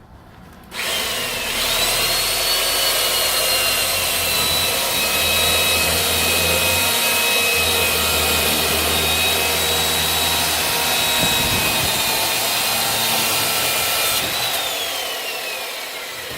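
Electric chainsaw switched on about a second in and running at full speed with a high whine while cutting firewood. Near the end it is released and winds down, its whine falling in pitch.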